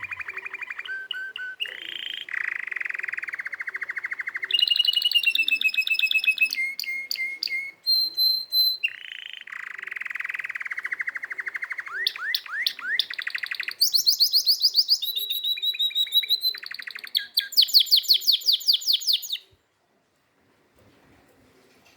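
Domestic canary singing a long, continuous song of rapid trills and repeated whistled phrases that change every second or two, some very high; the song stops abruptly near the end.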